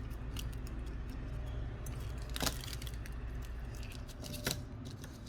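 Light clicks and taps of small metal parts being handled on a repair bench, with two sharper clicks, one about halfway through and one near the end, over a steady low hum.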